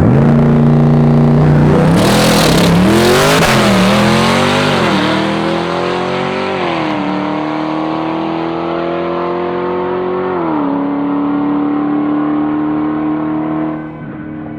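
High-horsepower drag car launching and accelerating hard down the strip. The engine note climbs in pitch, drops briefly at each of several quick upshifts, then holds steadier and fades as the car pulls away.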